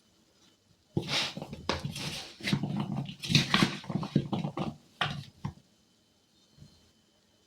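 An animal vocalizing in a run of short, irregular bursts lasting about four seconds, starting about a second in.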